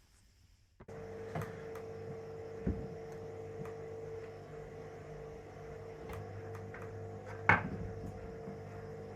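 A steady hum starts abruptly just under a second in, with several sharp knocks and light clicks of parts and tools being handled over it. The loudest knock comes about seven and a half seconds in.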